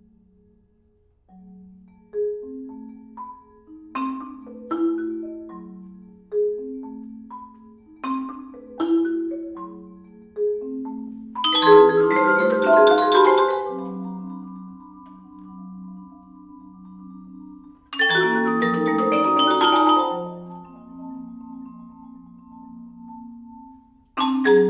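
Vibraphone and two marimbas playing: scattered single mallet notes at first, then two loud, dense flurries of notes, one near the middle and one about two-thirds through, with long ringing tones between them.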